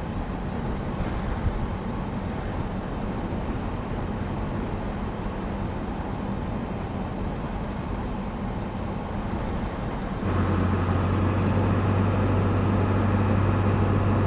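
Truck driving along a road: steady engine and road noise. About ten seconds in, it steps louder, with a strong low steady hum.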